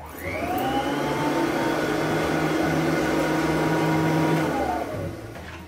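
Royal Model 880 upright vacuum cleaner motor switched on, spinning up with a rising whine and running steadily for about four seconds, then switched off and winding down with a falling whine.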